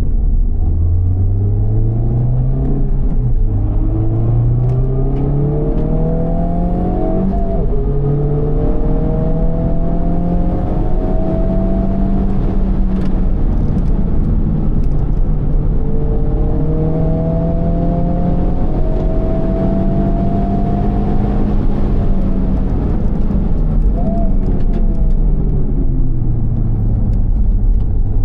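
Honda Civic Type R FL5's turbocharged 2.0-litre four-cylinder through a Mugen exhaust, driven hard on track: the revs climb and drop sharply at two upshifts in the first eight seconds, climb again, then fall under braking about 13 s in. The revs rise once more, fall again, with a quick throttle blip on a downshift about 24 s in, and start climbing near the end.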